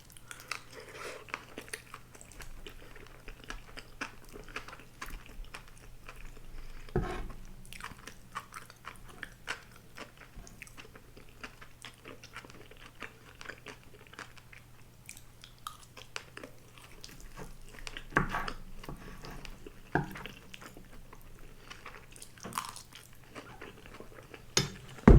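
Close-miked chewing of a grilled-eel rice bowl: many small wet mouth clicks and some crunching, with a few louder knocks spread through.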